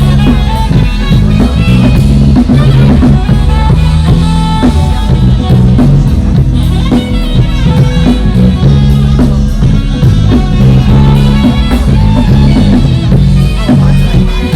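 Rock band playing an instrumental passage: drum kit, electric guitar and bass guitar, loud and steady.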